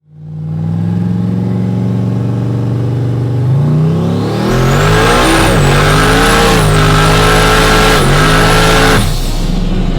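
Twin-turbo 4x4 truck engine holding a steady note, then pulling hard under full throttle, its pitch climbing with a high turbo whistle rising alongside. The pitch drops back at three gear shifts, and the engine lets off sharply near the end.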